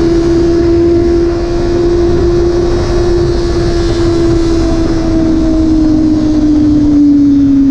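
Motorcycle engine running at a steady cruising speed under a steady low rumble of wind noise, its pitch easing down slightly near the end as the rider backs off.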